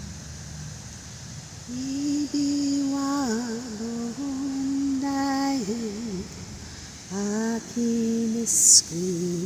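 A woman humming a slow wordless chant in long held notes, with short slides between them, starting a couple of seconds in. There is a brief sharp hiss near the end.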